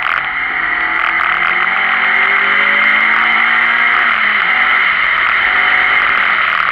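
Renault Clio Sport rally car's engine accelerating hard, rising in pitch through a gear, dropping at a gear change about four seconds in, then rising again, over loud wind and road noise.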